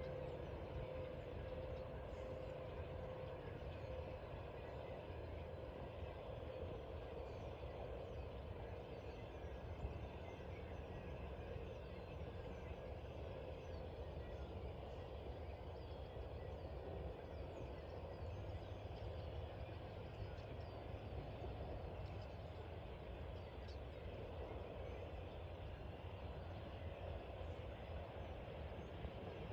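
Faint, scattered high chirps of small birds over a steady low rumble of background noise, with a steady hum that fades out about halfway through.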